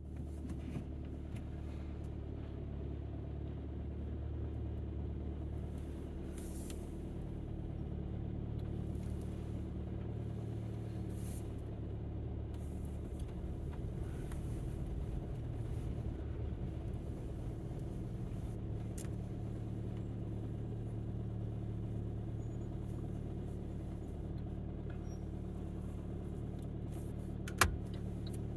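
Alfa Romeo MiTo driving, a steady low engine and road hum heard inside the cabin. A single sharp click sounds near the end.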